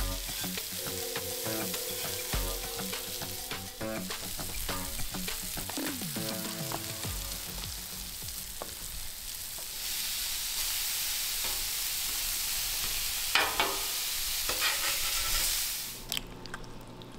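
Elk burger patties frying on a hot flat-top griddle: a steady sizzle that grows louder about ten seconds in and falls away near the end.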